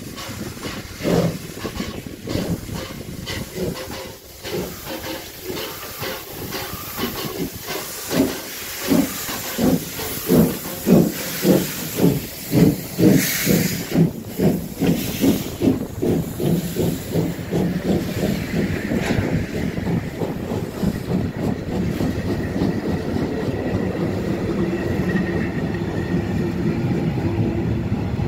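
PKP class Pt47 steam locomotive pulling away with its train: exhaust chuffs start slow and quicken to about three a second, with a short burst of steam hiss about halfway. The beats then blend into a steady running noise as it gathers speed.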